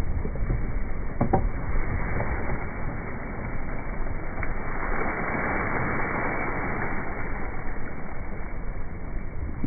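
Wind buffeting the microphone and water rushing past the hull of a Laser sailing dinghy sailing upwind, with a short knock about a second in and the rush of water swelling in the middle.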